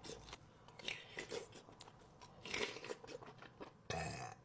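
Faint, close-miked chewing and mouth sounds of a person eating a shrimp from a seafood boil: a handful of short, irregular bites and wet smacks.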